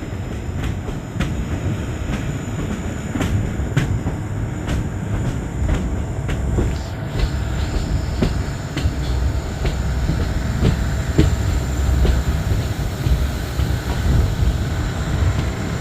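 Passenger train running along the track, heard on board: a steady low rumble with repeated clicks of the wheels passing over rail joints.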